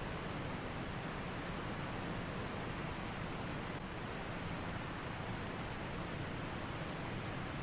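Steady wind noise, an even rushing hiss with no breaks.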